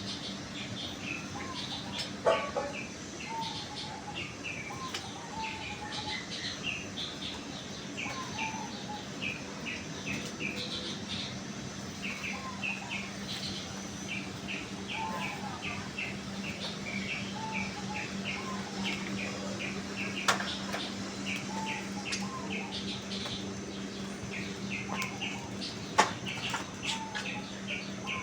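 Small birds chirping continuously in short repeated notes, with some lower short calls among them, over a steady low hum. A sharp click sounds three times: about two seconds in, about twenty seconds in, and near the end.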